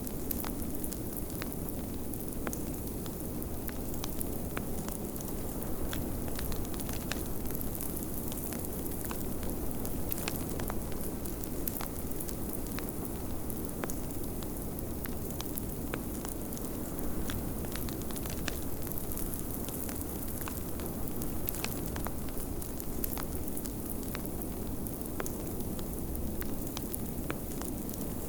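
Wood fire crackling with scattered sharp pops, over a steady low rush of blizzard wind.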